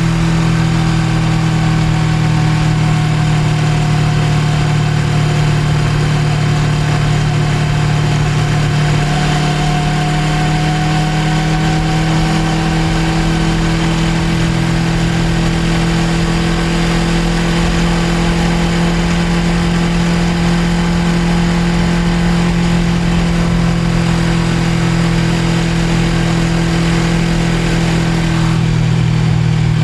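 Suzuki GSX250R's parallel-twin engine running at a steady cruise, its note holding steady and rising slightly partway through.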